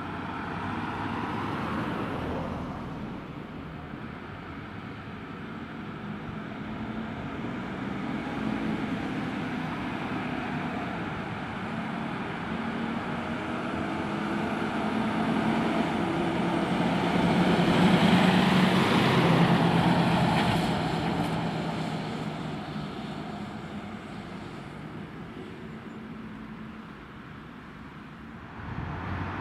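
Street traffic, with a heavy motor vehicle approaching, passing close and driving away, loudest about two-thirds of the way through, its engine hum and tyre noise then fading.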